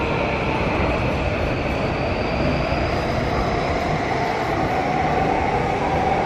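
Electric train heard from the station concourse: a steady rumble with a whine that slowly shifts and rises in pitch.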